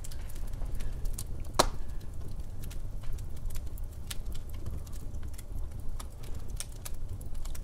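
Log fire crackling in a fireplace: irregular sharp pops and snaps over a low steady rumble of burning, with one louder pop about a second and a half in.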